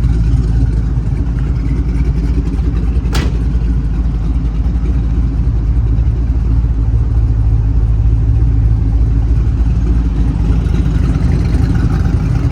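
Twin-turbo LS3 6.2-litre V8 idling with a steady low rumble, with a single sharp click about three seconds in.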